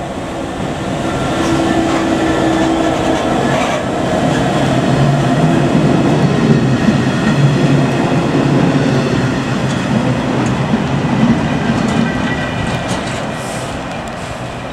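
Class 66 diesel locomotive's two-stroke EMD V12 engine running as it passes slowly, then its short rake of engineering wagons rolling by with a clattering rumble over the rail joints. The sound swells in the first couple of seconds and fades near the end as the train draws away.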